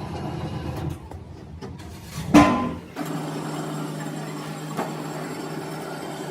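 A single loud knock with a short ring, like a hard metal part struck or dropped, about two and a half seconds in, over a steady workshop machine hum that changes character just after it.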